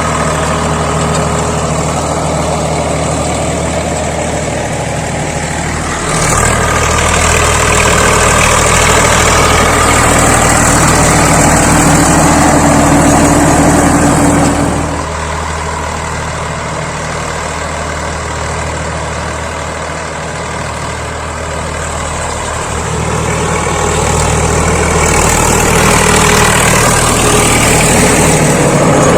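Swaraj 855 FE tractor's diesel engine running steadily, getting louder about six seconds in, dropping back about halfway through and rising again near the end.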